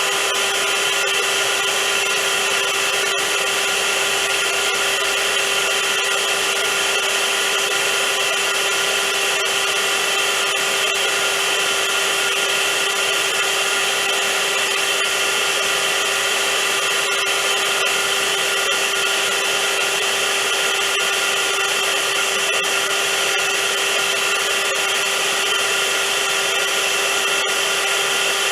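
Vacuum cleaner running steadily: a constant motor hum under a loud hiss of rushing air, with no change in pitch or level.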